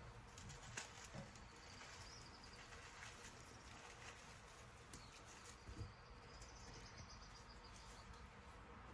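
Near silence with faint bird calls from outside, a high wavering twitter heard twice, and a few soft clicks.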